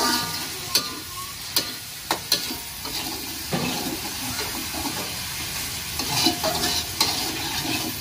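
Spice paste sizzling steadily in hot oil in a pan while it is stirred, with sharp clicks of the stirring utensil against the pan now and then. The paste is being fried until fragrant.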